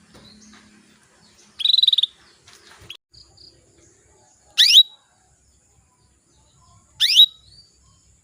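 Female canary calling: a short buzzy trill about a second and a half in, then two quick upward-sweeping chirps about two and a half seconds apart.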